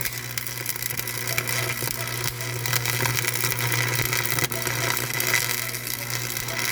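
A machine running steadily: a constant low hum under a dense rattling noise.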